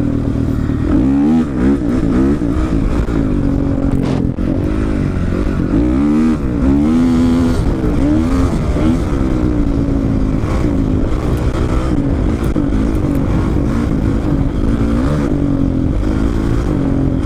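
Two-stroke dirt bike engine under hard throttle, its revs rising and falling sharply several times in the first half, then running steadier and lower.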